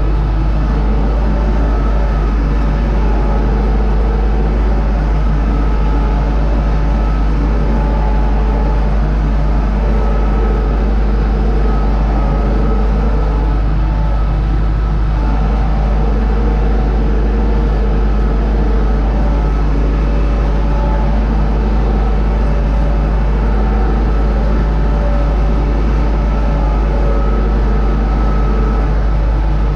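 Universal U650 tractor's four-cylinder diesel engine running steadily at an even speed.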